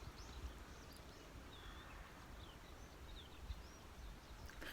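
Faint outdoor ambience: scattered short bird chirps and whistles over a low rumble.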